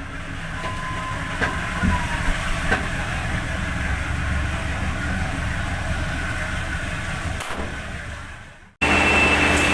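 Train running with a steady low rumble and a few knocks, fading out about eight seconds in. It then cuts suddenly to a louder steady hum with a high, steady whine.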